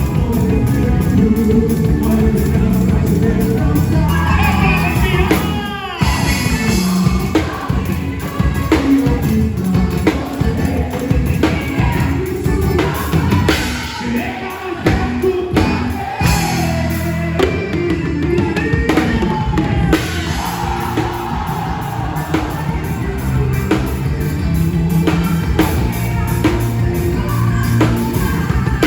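Band music with a drum kit and a singing voice.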